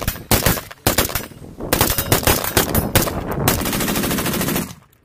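Rapid gunfire in repeated bursts of closely spaced shots, the longest burst running on for about a second before cutting off suddenly near the end.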